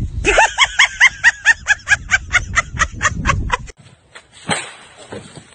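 A rapid series of short, high-pitched yelps, about five a second, that cuts off abruptly about two-thirds of the way through, followed by a single sharp click.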